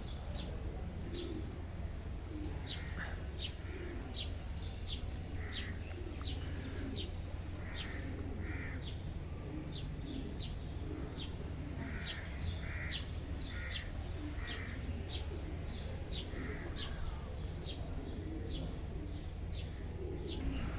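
Birds chirping: short, high chirps repeating about twice a second, over a steady low rumble.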